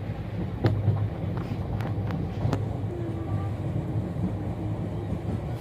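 Steady low rumble of a moving passenger train heard from inside the coach, with scattered clicks and knocks.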